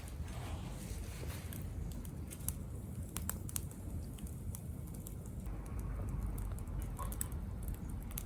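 Wood fire crackling in a small B6 grill-stove: irregular sharp pops and snaps over a low steady rumble.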